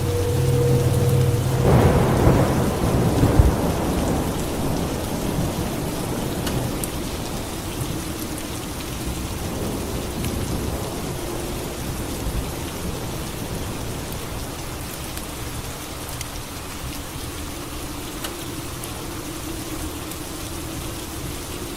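Steady rain falling, with a thunderclap about two seconds in that rumbles away over the next few seconds.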